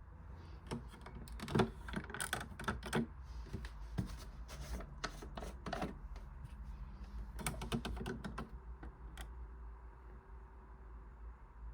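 Irregular runs of small clicks and taps, like plastic parts being handled, in clusters separated by short pauses, over a steady low hum.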